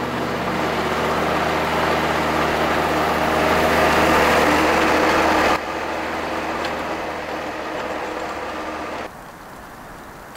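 An engine running steadily under a rushing noise. The sound drops off abruptly about five and a half seconds in and again near the end.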